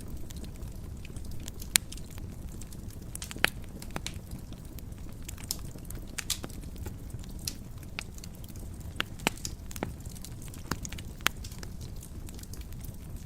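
Wood fire burning in a fireplace: a steady low rumble of flames with irregular sharp crackles and pops, the loudest about two seconds and three and a half seconds in.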